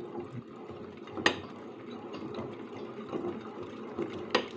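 Mechanical rattling from an IZh Planeta 5 two-stroke engine being worked on, with two sharp clicks, one about a second in and one near the end. The rattle is a sign of play inside the engine: something in it is knocking.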